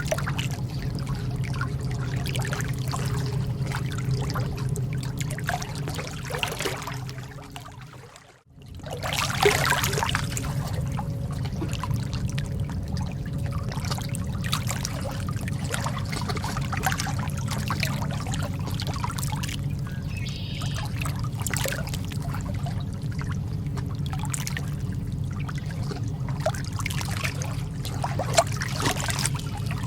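Calm lake water lapping and trickling in small irregular splashes over a steady low rumble. The sound fades away about eight seconds in and comes straight back.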